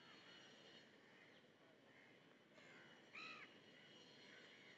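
Near silence with faint bird calls over a low background hiss; the clearest call comes about three seconds in.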